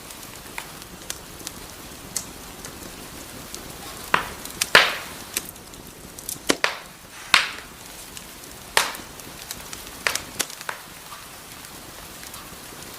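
Wood fire burning in a fireplace: a steady hiss with sharp crackles and pops, which come thickest and loudest in the middle.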